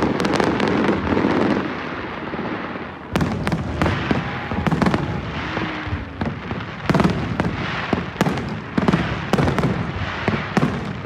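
Fireworks display going off: dense crackling for the first couple of seconds, then a run of sharp bangs, often several in quick succession, with a few faint short whistles among them.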